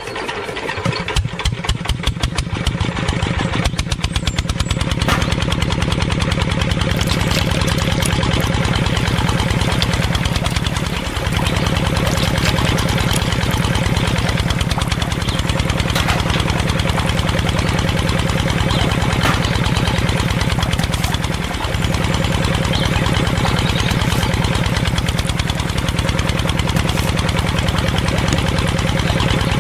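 Single-cylinder diesel engine starting and running: separate chugs over the first few seconds quicken into a steady, rapid running beat.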